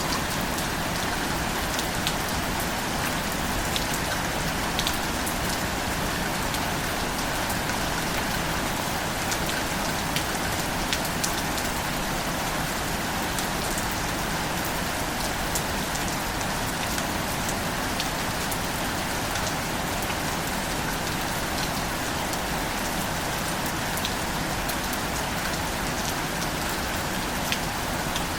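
Steady rainfall, an even hiss with scattered sharp drop ticks throughout.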